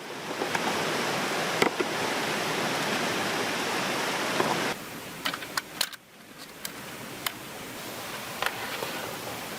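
Steady rushing noise with a few light clicks and taps. It drops suddenly about five seconds in, dips again about a second later, then slowly builds back.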